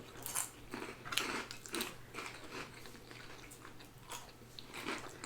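A person biting and chewing food close to the microphone: irregular soft crunches and mouth smacks.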